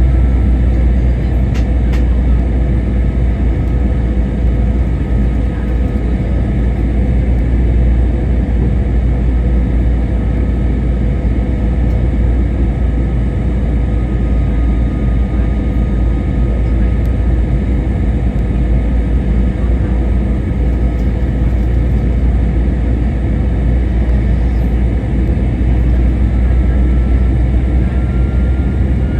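Airbus A321-200 airliner in flight, heard from the passenger cabin: a steady, loud deep rumble and rushing air noise with faint steady engine tones, one of which rises slightly in pitch near the end.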